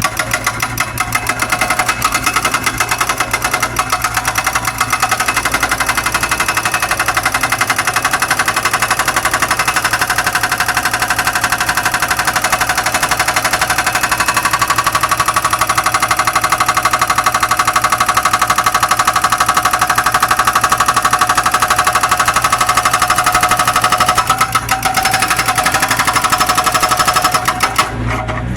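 Hydraulic breaker hammer on a Zoomlion excavator pounding in rapid, continuous blows over the excavator's running engine, stopping near the end.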